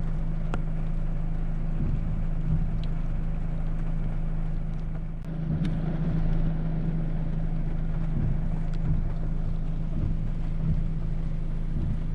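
A car idling, heard from inside the closed cabin as a steady low hum over a soft hiss, with a few faint ticks.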